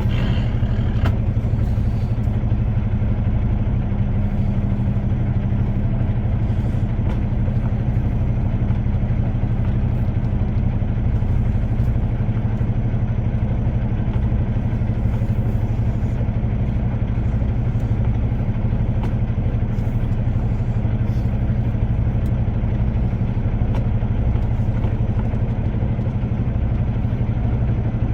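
Semi truck's diesel engine running steadily at low revs while the truck creeps and manoeuvres into its parking place.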